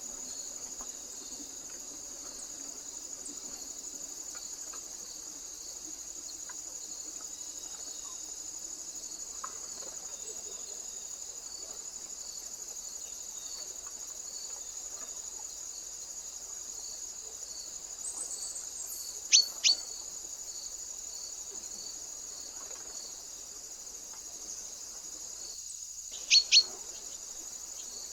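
Steady high-pitched insect chorus, with a small bird giving a quick, sharp two-note call twice, about two-thirds of the way in and again near the end.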